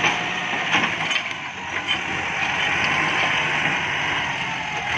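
Kubota MU5702 tractor's diesel engine running steadily, with several sharp cracks of wood breaking in the first two seconds.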